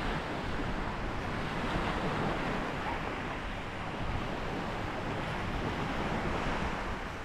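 Sea waves washing steadily onto the shore, with wind buffeting the microphone.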